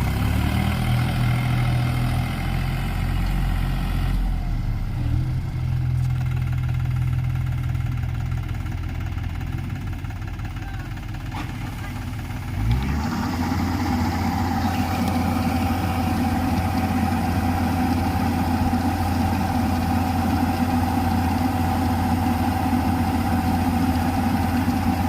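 New Holland tractor's diesel engine running steadily. About halfway through it picks up sharply and carries on louder and higher, as if throttled up or taking on load.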